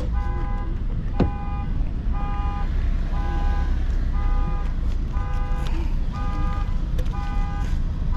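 Repeated electronic beeping, short pitched beeps about twice a second, like a car alarm, over a steady low rumble. One sharp click about a second in.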